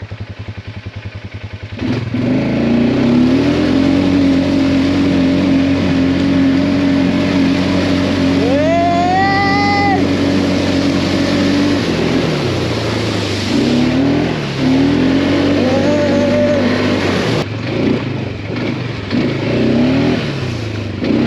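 570 cc ATV quad bike engine idling with a fast putter, then revving up about two seconds in and running at steady high revs as it is ridden. In the second half the revs drop and pick up again several times, and a short rising whine rides over the engine about halfway through.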